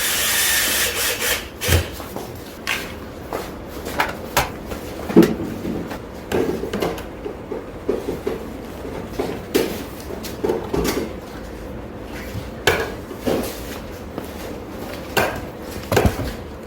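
Computer hardware and parts being handled and set down during a desk installation: scattered knocks, taps and rubbing on wooden surfaces, after a short hiss in the first second or so.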